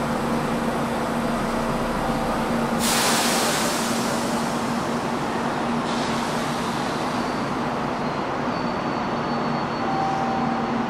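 Standing limited express electric train humming steadily at the platform, with a sudden loud hiss of compressed air about three seconds in that fades away over several seconds.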